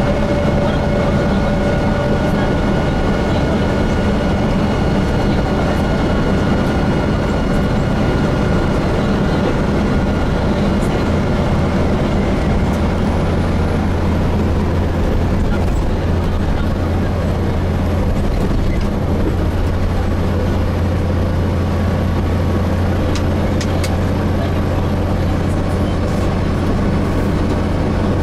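Inside a Gillig Phantom diesel bus with a Voith transmission: steady engine, drivetrain and road noise in the cabin. The low hum strengthens about a third of the way through, and a thin high whine runs through most of the second half.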